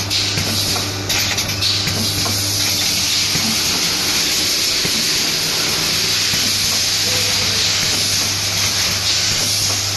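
Dishwasher tablet production machine running: a steady hiss over a constant low hum.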